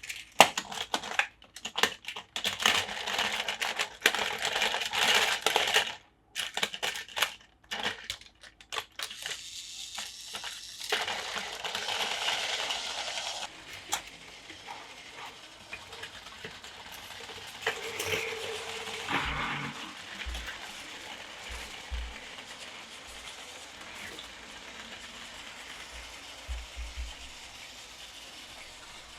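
Hard plastic Plarail toy track and parts clicking and clattering as they are handled and fitted together: a dense run of sharp clicks in the first half, then quieter, scattered handling sounds.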